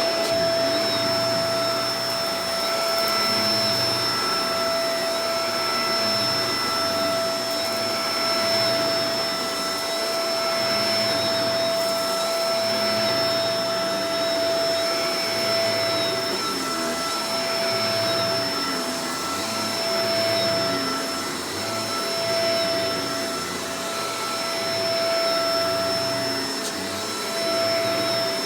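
Shark Professional Powered Lift-Away DLX (NV586) upright vacuum running continuously, its motor giving a steady high whine over a rushing airflow noise, with the lower hum swelling and easing every couple of seconds.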